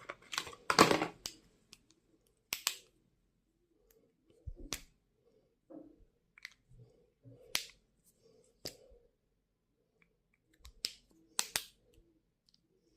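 Stationery items and their packaging being handled: scattered sharp clicks and taps, with a brief louder rustle about a second in.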